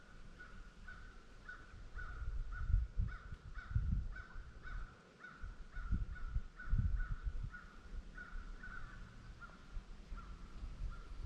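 A bird calling over and over with a short call repeated about twice a second, over scattered low rumbles and thumps.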